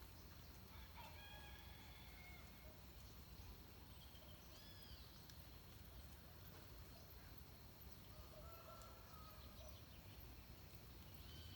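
Faint dawn birdsong in forest: scattered short whistles and arching call notes from several birds, over a steady low background rumble.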